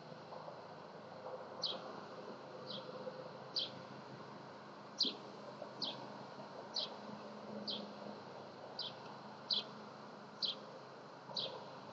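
A bird calling a short, high note that slides down in pitch, repeated about once a second over a steady faint background hum.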